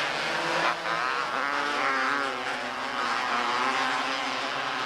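Several small race-car engines running together on the track, their pitches rising and falling as the cars go around.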